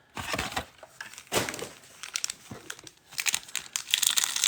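Plastic trading-card packaging crinkling as it is handled close up. The crackle comes in irregular bursts and grows denser about three seconds in.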